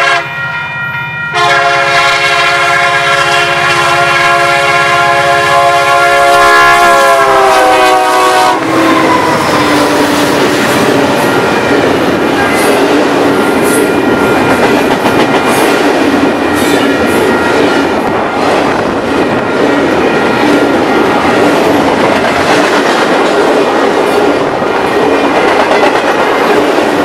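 Diesel freight locomotive's air horn: a short blast, then a long one from about a second in whose pitch sags as the locomotive passes near the 8-second mark. The horn stops and the intermodal train rolls by close up, wheels clattering steadily over the rail joints.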